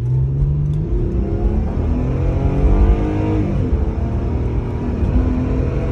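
Mercedes-AMG CLA45's turbocharged four-cylinder engine under hard acceleration from a launch. The revs climb steadily, drop sharply at a gear change about three seconds in, then climb again.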